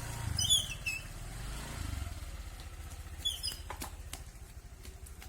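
Motorcycle engine running low and steady, then fading away about four seconds in. Two short clusters of high chirps sound over it, one about half a second in and one about three seconds in.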